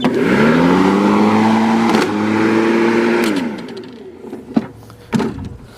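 Lawnmower running: it starts abruptly and speeds up with a rising pitch, holds steady for a few seconds, then winds down with a falling pitch. A few sharp knocks follow near the end.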